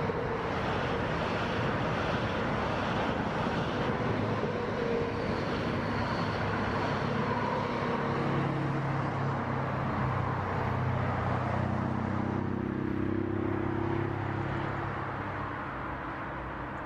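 A TILO electric passenger train running past, a steady rush of wheels and running gear that fades after about fourteen seconds, over steady motorway traffic. A low hum joins in the second half.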